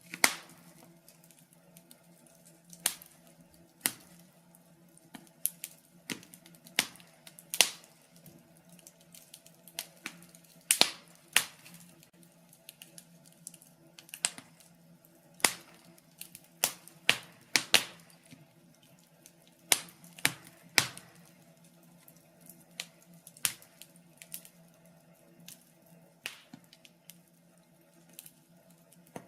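Wood logs burning in a fireplace, crackling with irregular sharp pops and snaps, some much louder than others, over a faint steady low hum.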